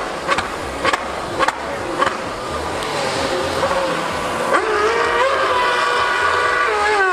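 High-revving racing engine: a high-pitched engine note comes in about two-thirds of the way through, rising quickly, holding steady, then falling in pitch near the end. Before it there is a noisy background with several sharp clicks.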